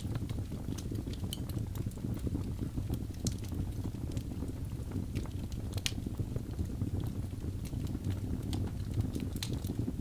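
Wood logs burning in a fireplace: a steady low rumble of the flames with frequent sharp, irregular crackles and pops from the burning wood.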